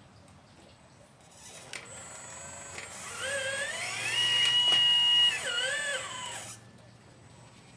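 Electric motor of a 1/12-scale RC Liebherr 954 model excavator whining under load. It starts about a second and a half in, rises in pitch, holds steady at its loudest for about a second, dips and rises again briefly, then stops about a second before the end.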